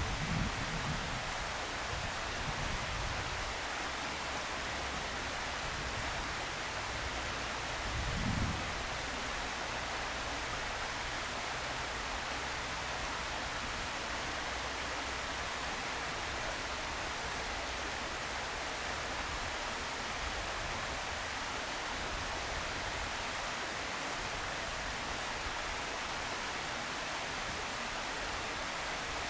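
Steady, even background hiss, with a short low rumble about eight seconds in.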